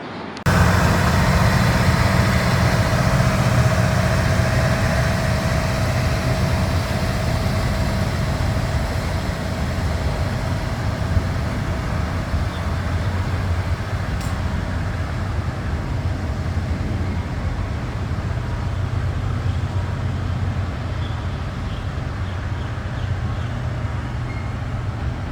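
Kiha 183 diesel railcar running, a steady low engine drone that starts abruptly and slowly eases off as the train moves in.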